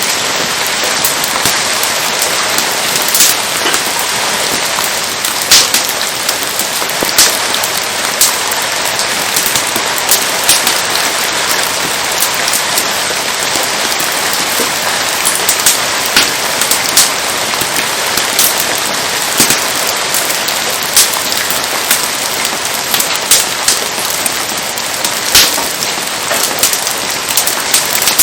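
Steady rain hiss throughout, with irregular sharp cracks and pops from a wood fire burning in the rain.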